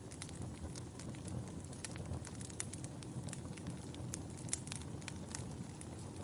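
Logs burning in a fireplace, crackling with irregular sharp pops and snaps over the low, steady rush of the flames.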